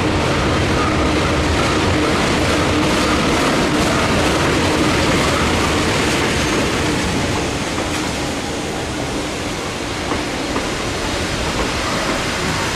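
Passenger train carriage running along the track with a steady, loud rumble and rattle that eases slightly about eight seconds in.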